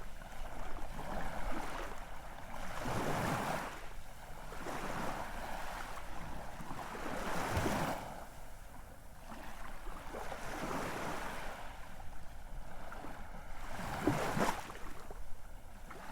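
Ocean waves washing in, a rushing surge that swells and falls back every few seconds.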